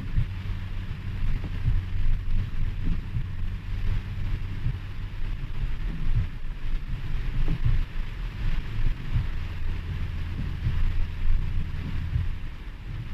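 Rain falling with a steady hiss, over a continuous uneven low rumble.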